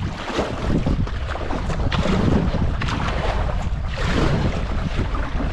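Kayak being paddled down a shallow creek: water rushing and splashing around the hull with surges about once a second, under heavy wind rumble on the microphone.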